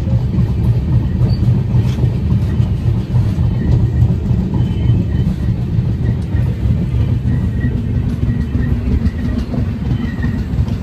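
Passenger train running at speed: a steady, loud low rumble of wheels on track with rushing air, heard from beside the coach.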